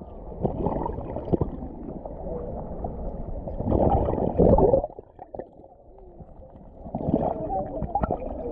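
Muffled gurgling and sloshing of river water with the camera's microphone underwater, swelling and fading in waves with a quieter lull about halfway through.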